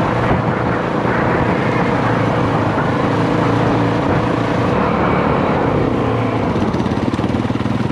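A dirt bike's single-cylinder engine running steadily as the bike is ridden.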